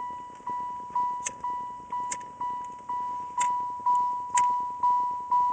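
An electronic warning chime beeping evenly about twice a second; each beep is one high tone that dies away quickly. A few short, sharp high chirps or ticks sound over it.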